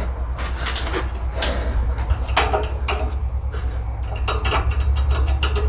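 Irregular light metallic clinks and knocks of hand tools and metal hardware being handled, over a steady low hum.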